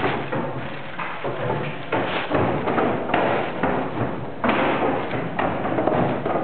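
Irregular thuds, about one or two a second, with rustling noise close to the camera microphone.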